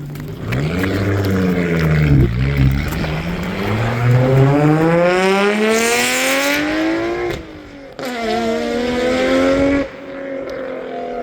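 A car engine accelerating hard, its pitch climbing for several seconds and dropping sharply at two gear changes.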